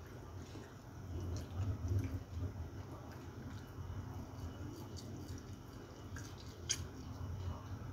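Close-miked chewing and wet mouth sounds of a person eating rice, omelette and raw vegetables with the fingers, with a few small sharp clicks scattered through, the sharpest near the end.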